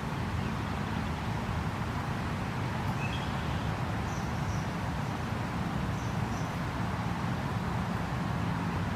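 Steady outdoor background rumble by a creek, with a few faint, brief bird chirps about three seconds in and again between four and six seconds.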